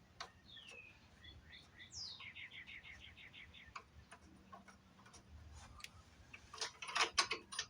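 A small bird singing: a falling chirp, then a falling note running into a quick trill of about a dozen repeated notes. Scattered sharp clicks, and near the end a louder burst of clicking and clattering.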